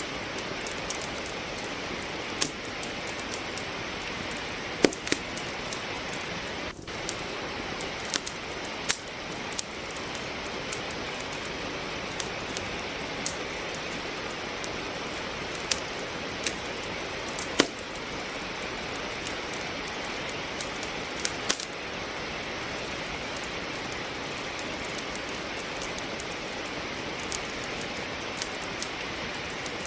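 Steady hiss of falling rain with firewood crackling in a fireplace: irregular sharp pops and snaps over the rain, a few louder ones standing out.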